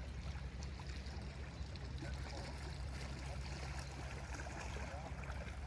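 Small lake waves lapping and washing against the shore, over a steady low rumble.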